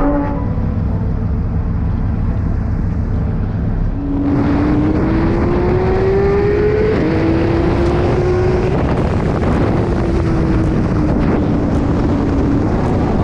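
Car engine running while driving, over a steady low road rumble. About four seconds in, its pitch climbs as the car accelerates, drops at an upshift a few seconds later, then holds and slowly eases down.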